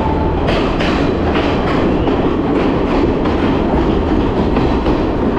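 Passenger train running through a tunnel, heard at an open carriage doorway: a loud, steady rush of wheels and air, with repeated clacks of the wheels over rail joints.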